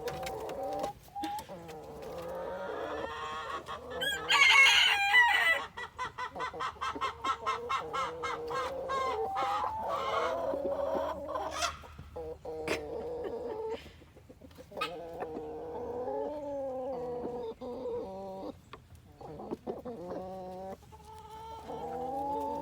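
A flock of chickens clucking and murmuring continuously, with a loud rooster crow about four seconds in.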